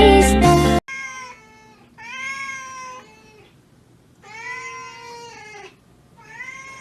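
Loud background music cuts off abruptly under a second in. Then a domestic cat meows four times: a short meow followed by three long, drawn-out meows, each bending up and down in pitch.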